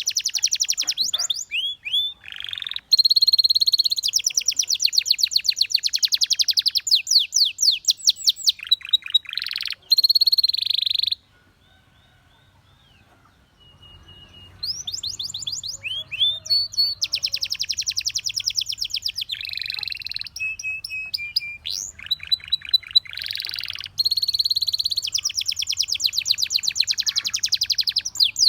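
Canary singing in long, fast trills of rapidly repeated notes, with a pause of about three seconds midway before the song starts again.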